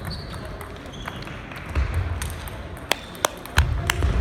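Table tennis balls clicking off bats and tables, irregular sharp ticks from several rallies at once, coming thicker in the second half, with a short high squeak near the start and low thuds.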